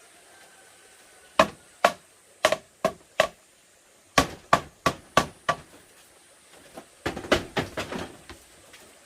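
Hammering on bamboo: two runs of about five sharp blows each, then a quicker flurry of lighter knocks near the end.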